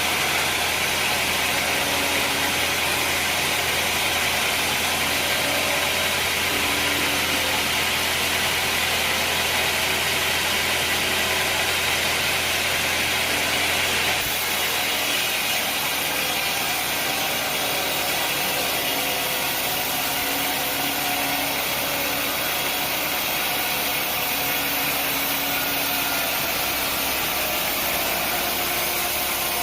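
Sawmill machinery running steadily, an engine hum under a broad saw hiss. The sound shifts abruptly about halfway through, with less low rumble afterwards.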